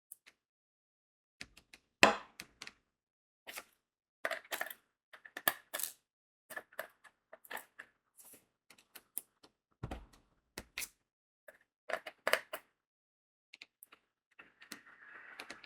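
Diamond-painting work sounds: crystal rhinestones being picked up and pressed onto the sticky canvas, giving an irregular run of small sharp clicks and taps, the loudest about two seconds in. A soft rustling hiss begins near the end.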